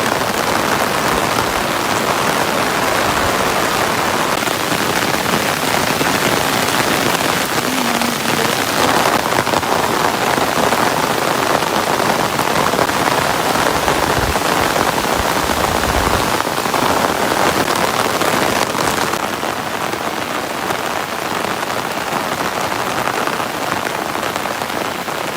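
Steady heavy rain falling, a dense even hiss, easing slightly near the end, with a couple of brief low thumps about halfway through.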